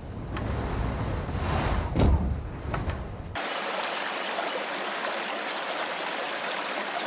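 A low rumbling ambience with a few soft clicks, cutting suddenly about three seconds in to a babbling brook's steady rushing, trickling water.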